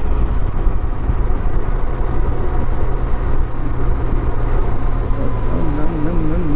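Benelli TRK 502 parallel-twin motorcycle cruising on the highway, engine and wind noise running steadily on the rider's microphone. About five and a half seconds in, a wavering tone that rises and falls about twice a second comes in over it.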